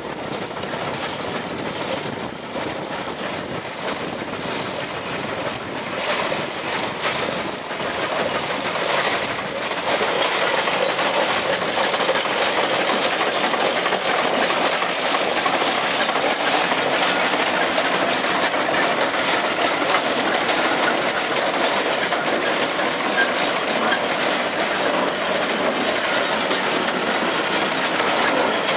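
1915 Case 65 hp steam traction engine running on the move, with a rapid rhythmic clatter of exhaust and gearing; it gets louder about ten seconds in and then holds steady.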